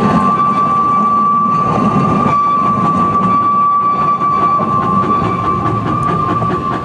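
Narrow-gauge train running on the track, a continuous rumble with a steady high-pitched tone held over it throughout.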